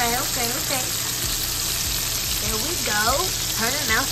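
Chicken thighs frying in hot oil in a pan, a steady sizzle throughout. A person's voice, without clear words, rises and falls over it near the start and again in the second half.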